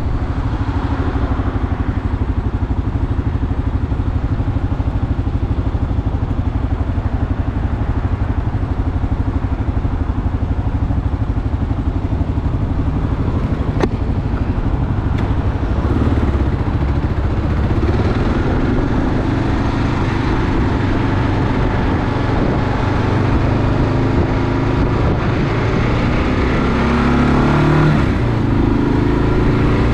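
Kawasaki KLR 650's single-cylinder engine running steadily under way, its pitch shifting with the throttle about halfway through and again near the end.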